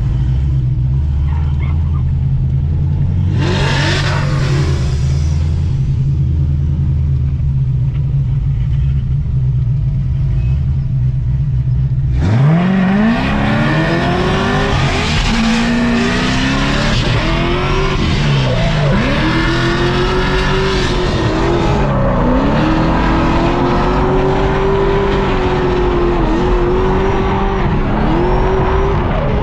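C6 Corvette Z06's supercharged LS7 V8 running at low, steady revs, with a brief rush of noise about four seconds in. About twelve seconds in it revs up sharply, then keeps rising and falling in pitch as the car is driven hard into a drift run.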